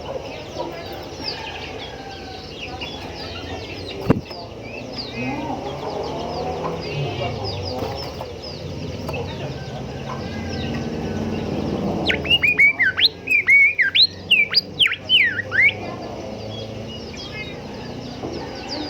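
Golden whistler song: a loud, quick run of whistled notes sliding up and down, starting about twelve seconds in and lasting some three and a half seconds, over a constant chatter of other small birds' high chirps. A single sharp click comes about four seconds in.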